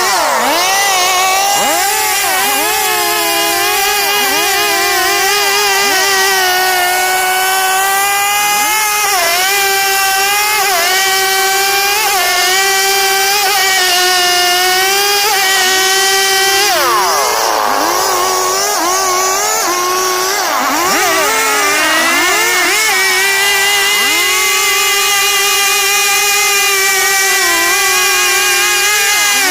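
STIHL two-stroke chainsaw running near full throttle while cutting wood, its pitch dipping briefly again and again as the chain bites under load. About two-thirds of the way through the revs drop further and then climb back.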